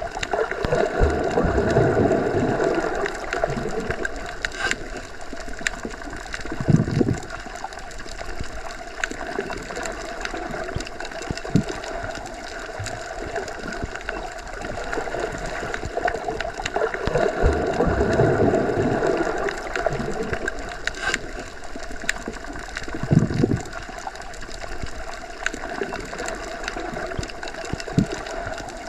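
Underwater ambience heard with the microphone submerged: a steady muffled rushing with faint whirring tones, swelling louder twice and with short deeper surges about a quarter and three quarters of the way through, in a pattern that repeats like a loop.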